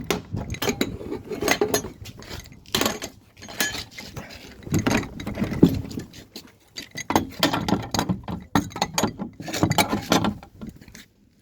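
Metal hand tools and plumbing parts clinking and knocking irregularly as they are handled.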